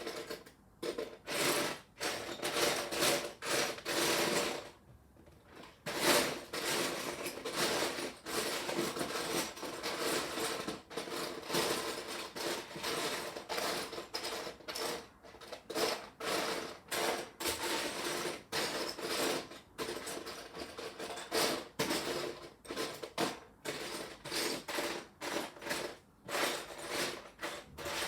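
Loose plastic Lego pieces clattering and rattling as a hand rummages through a pile of them, searching for one brick. The rummaging comes in rapid bursts of clicks with short pauses.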